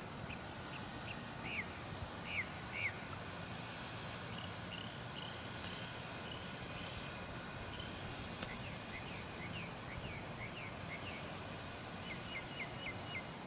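Birds chirping: short, high, downward-sliding chirps scattered throughout, with a quick run of several near the end, over a steady background hiss.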